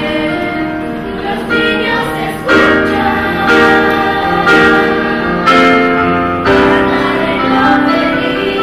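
A mixed ensemble of voices singing in chorus over musical accompaniment, holding long chords that change about once a second, growing fuller and louder about two and a half seconds in.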